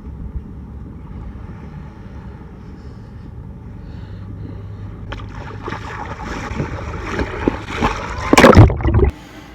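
Water sloshing and splashing close to the microphone over a low rumble of surf, building up and peaking loudly just before it cuts off suddenly near the end.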